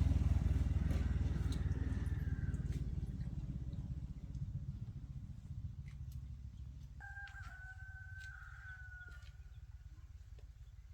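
A small engine runs with a low, rapid pulsing, loudest at the start and fading away. About seven seconds in, a rooster crows for about two seconds.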